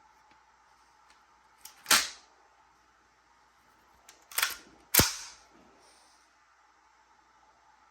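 Three sharp bangs, about two and a half seconds apart and then half a second apart, each with a short ringing tail, over a faint steady hum.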